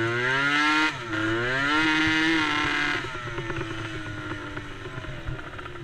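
Small off-road racing engine revving up, dipping briefly about a second in, then revving up again and holding before backing off about three seconds in; a lower engine note carries on after.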